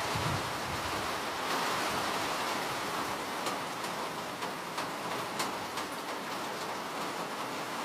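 Steady rain, an even hiss, with single drops ticking sharply here and there through the middle.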